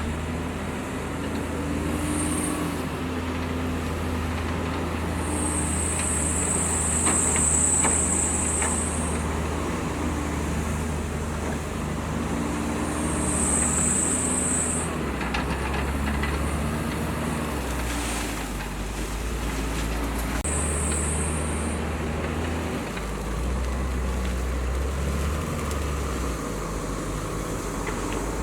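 Heavy diesel earthmoving machinery working, its engine running steadily and rising and falling in pitch as it takes load. A high-pitched whine comes and goes four times, each lasting from under a second to a few seconds; the longest runs for about four seconds, about six seconds in.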